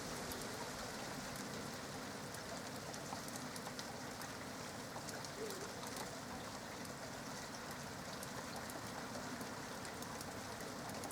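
Steady rain falling during a lightning storm, with scattered drop ticks throughout.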